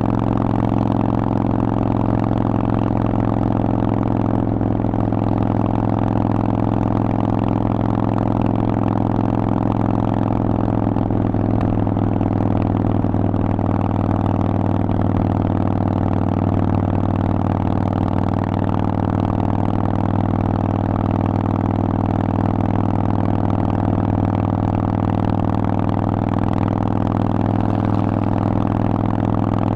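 Harley-Davidson Forty-Eight's air-cooled Evolution V-twin running through a Vance & Hines aftermarket exhaust, holding a steady engine speed with no revving up or down.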